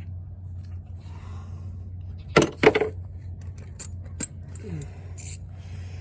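Metal hand tools clinking: two sharp metal-on-metal clinks about two and a half seconds in, then a few lighter clicks, over a steady low hum.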